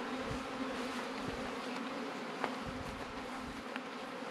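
Honeybees from a freshly installed nucleus colony buzzing as a steady, low hum, with a small tick about two and a half seconds in.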